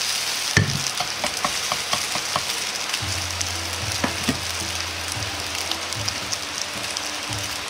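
Yakisoba noodles frying in oil in a frying pan: a steady sizzle with small crackles of spattering oil as the noodles brown and crisp on the underside. A thump about half a second in.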